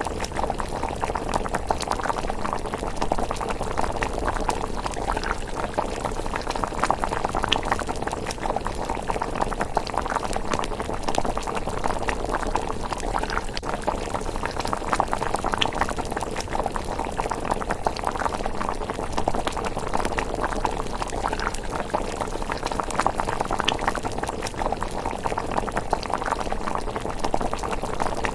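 Thick rice porridge simmering in a pot, a steady dense bubbling with many small pops.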